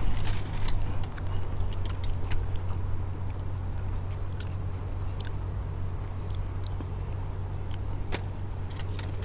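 Close-miked chewing with scattered short wet mouth clicks, over a steady low hum.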